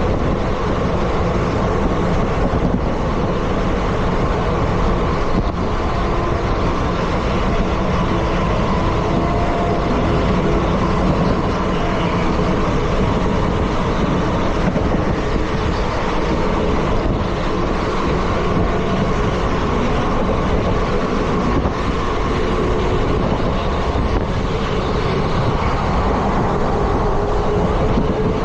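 Steady running noise of an Indian Railways ICF passenger coach moving along the track: a continuous rumble and roar of wheels on rail, with a few faint steady tones.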